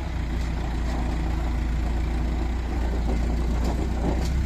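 JCB 3DX backhoe loader's diesel engine running steadily at low revs, a deep even hum with some rattle over it.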